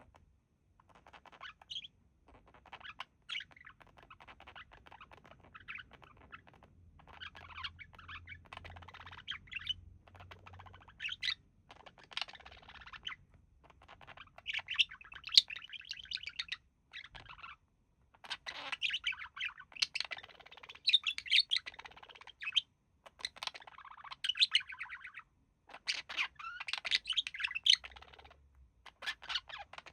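Budgerigars chattering and warbling in long runs of rapid chirps, with short pauses between phrases and louder bursts in the second half.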